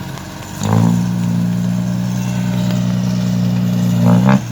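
A vehicle engine revving up about 0.7 s in and then running hard at a steady pitch under load, as it strains to climb a slippery slope. A brief clatter sounds near the end.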